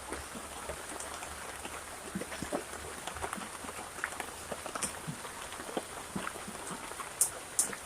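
Heavy rain falling steadily, with many scattered drops ticking on nearby surfaces and two sharper clicks near the end.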